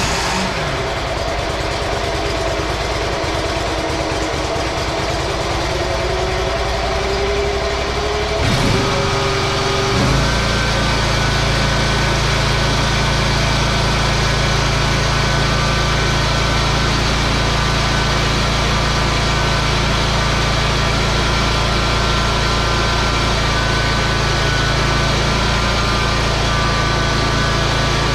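John Deere zero-turn mower engine running. Its note slowly rises over the first several seconds, changes about nine to ten seconds in, and then holds steady.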